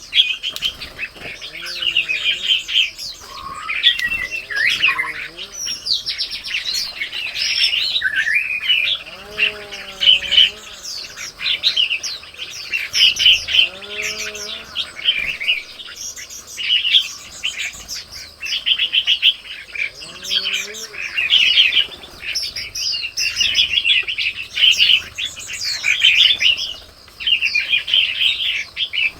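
Busy chorus of small songbirds chirping and twittering without a break, with a few low, arched calls from another bird standing out every few seconds.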